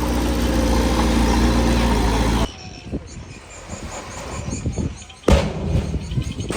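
Heavy diesel engine running steadily, then cut off abruptly after about two and a half seconds, followed by quieter scattered knocks and one loud thump about five seconds in.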